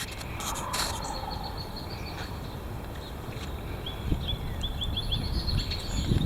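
Wind noise on the microphone, with small birds chirping over it: a quick run of short high notes about a second in, and a few short falling chirps near the end.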